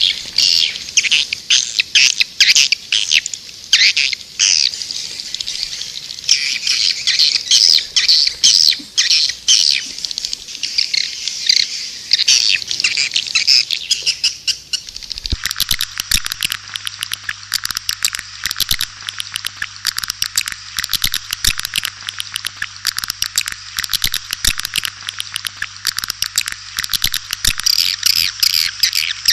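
Edible-nest (white-nest) swiftlets twittering in a dense, continuous chatter of high chirps. This is a recorded call sound used to lure swiftlets into a nesting house. About halfway through, the track changes to a faster, denser run of chirps with a low steady hum beneath.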